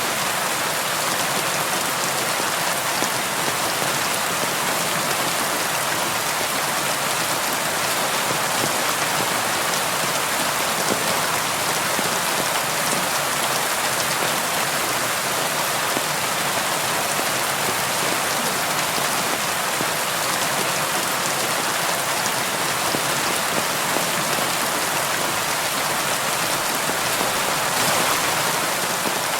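Steady rain falling on window glass, an even hiss with the patter of individual drops.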